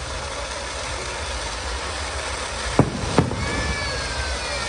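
Two firework bangs close together, about half a second apart, over a steady background rumble.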